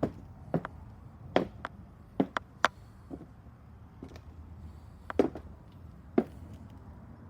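Irregular knocks and clacks of hard objects being handled and set down: several close together in the first few seconds, then a pause, then two more near the end.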